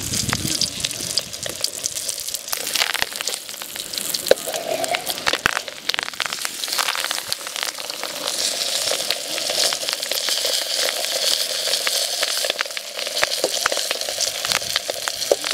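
Stingray wrapped in banana leaf frying in oil in an aluminium pan, a steady sizzle dotted with sharp crackles and pops.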